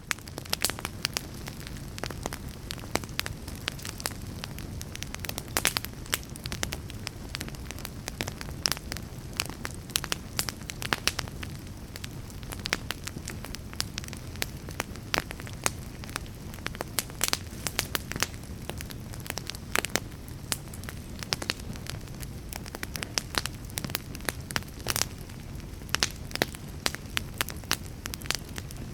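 Fire crackling: dense, irregular sharp pops and snaps over a low steady rumble of flame.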